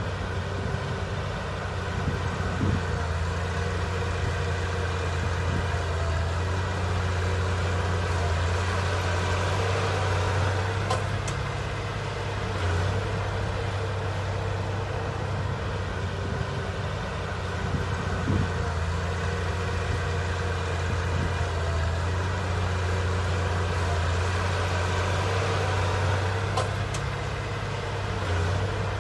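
Heavy diesel engine of earthmoving machinery running steadily with a deep, even drone, and a few faint clicks over it.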